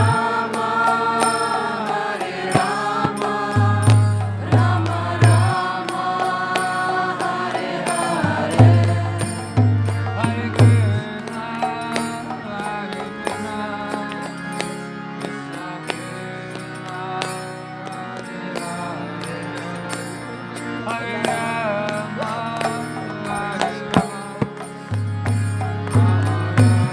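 Devotional kirtan: sung chanting of a mantra over instrumental accompaniment, with a steady rhythm of sharp percussive strikes and pulsing low notes.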